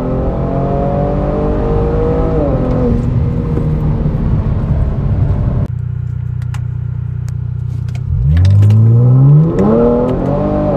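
Genesis G70's 3.3-litre twin-turbo V6, heard from inside the cabin. It first pulls hard with an upshift about two and a half seconds in, then, after a cut, idles steadily at a standstill. About eight seconds in it revs up sharply and louder as the car launches from rest, with another upshift near the end.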